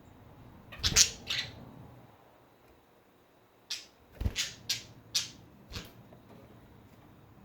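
Pet budgies giving short, harsh squawks and chirps: two close together about a second in, then a quick run of five or six a few seconds later.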